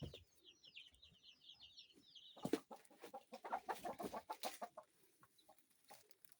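Kienyeji chicks peeping in quick high chirps for the first couple of seconds, then a rapid run of chicken clucking that stops about two seconds before the end.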